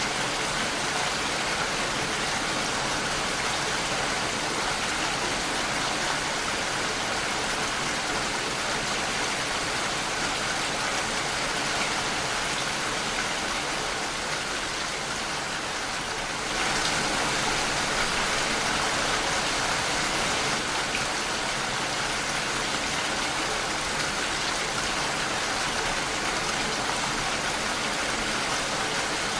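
Steady rain pattering against a window pane, a dense, even hiss that gets a little louder about halfway through.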